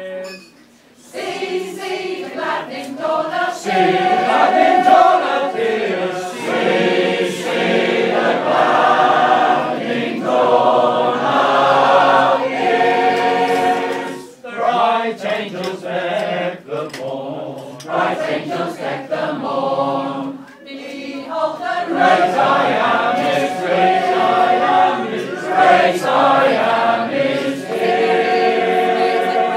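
Choir singing a carol in several parts, with short breaks between phrases about a second in, at about 14 seconds and at about 20 seconds.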